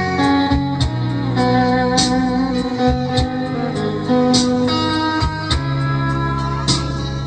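Guitar playing a melodic lead lick over a backing track with bass and drums.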